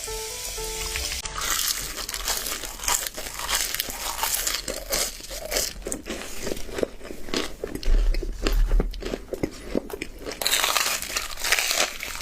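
A few notes of music at the start, then crisp crunching bites and chewing of double-fried, flour-dusted chicken drumsticks, a dense run of sharp crackly crunches.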